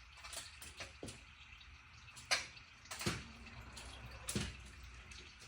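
Scattered clicks and clinks of hand tools on metal fasteners as bolts come off an engine, about half a dozen at irregular spacing. The loudest come a little over two seconds in and just after three seconds in.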